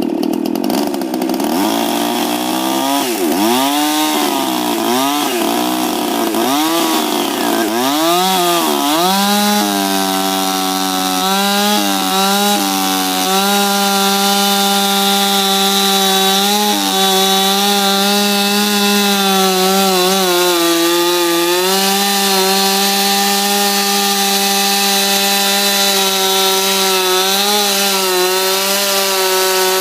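Ported Husqvarna 357 XP two-stroke chainsaw revved up and down in quick swells for about the first nine seconds, then held at a high, steady speed with a few brief dips as it plunge-cuts into a peeled white pine log.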